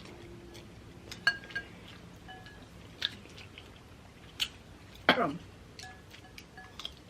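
Spicy ramen noodles being eaten with chopsticks: chewing, with a handful of sharp clinks of chopsticks against a bowl, a couple of them ringing briefly. The loudest click comes about five seconds in.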